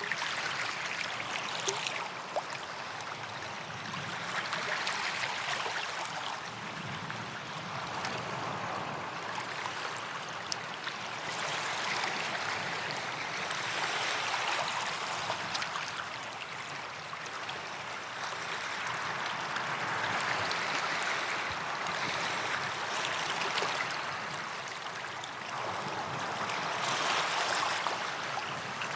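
Small waves lapping and washing on a sandy beach, swelling and fading every few seconds with a light fizz and crackle of draining water.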